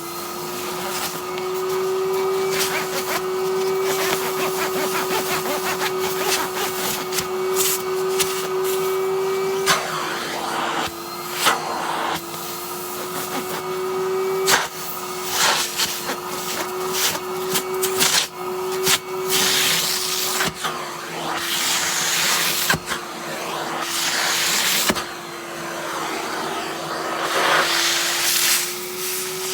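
Henry cylinder vacuum cleaner running steadily over a padded winter jacket. Its motor tone dips slightly several times as the nozzle meets the fabric, with frequent clicks and rustling from the nozzle against the jacket and its zips.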